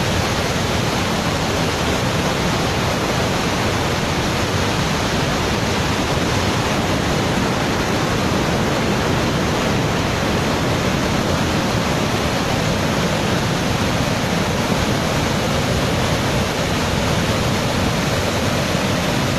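Large waterfall, a steady, loud rush of falling water that stays even throughout, with no separate events.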